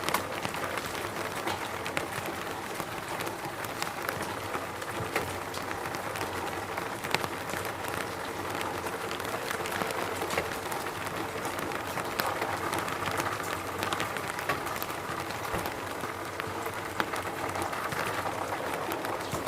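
Steady rain falling: a dense even patter with many individual drops ticking sharply through it.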